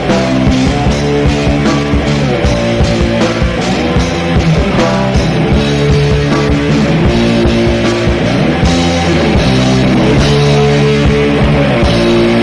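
A heavy metal band playing live: distorted electric guitars over bass and drums, with no singing. About three-quarters of the way through, the playing settles into a steadier, sustained wash.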